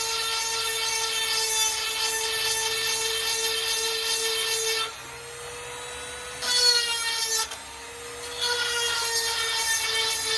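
Small electric rotary tool with a grinding bit sharpening chainsaw chain teeth: a steady high motor whine, with three spells of louder grinding as the bit is put to the teeth, the first lasting about five seconds. Between the spells the tool runs free.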